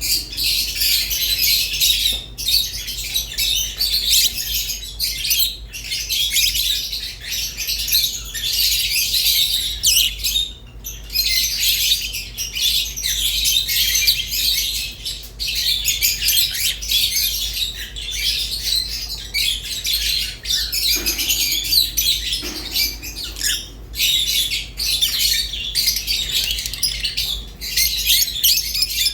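Pet lovebirds, rosy-faced and Fischer's, chirping and chattering continuously in rapid, high-pitched, squawky calls, with only momentary pauses.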